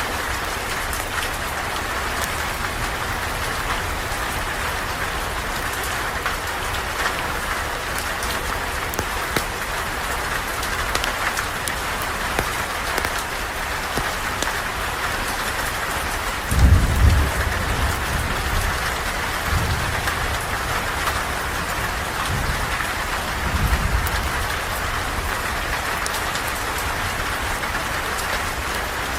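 Steady rain pattering on a surface, with low rumbles of thunder twice: once just past halfway, the loudest moment, and again a few seconds later.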